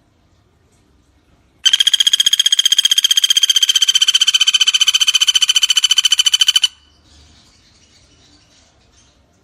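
Common flameback woodpecker (pelatuk bawang) giving one long, fast, even rattling trill of about five seconds, starting about a second and a half in.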